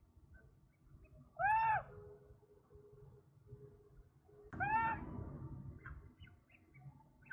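A bird giving two short calls about three seconds apart, each note rising and falling in pitch, over a faint low background noise.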